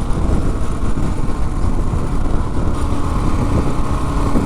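Suzuki DR-Z400S single-cylinder four-stroke engine running steadily under way, with a dense, even rumble of road and riding noise.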